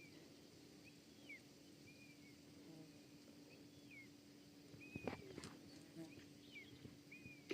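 Faint outdoor quiet with a bird repeating short chirps about once a second over a low steady hum. There is a single sharp knock about five seconds in.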